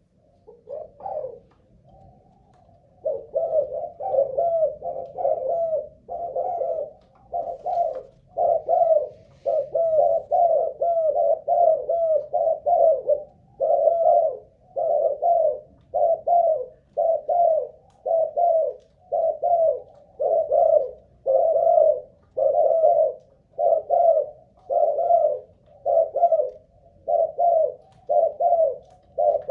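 Spotted dove of the Malaysian cu gáy singing strain cooing phrase after phrase, after a few faint notes settling into about one phrase a second from roughly three seconds in. It is a long, unbroken cooing bout, the kind keepers use to judge a bird's stamina.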